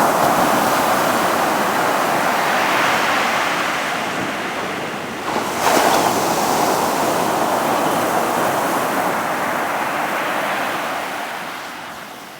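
Sea waves breaking and washing up the beach in two surges: one running through the first five seconds, and a second that crashes in about five and a half seconds in and fades away near the end.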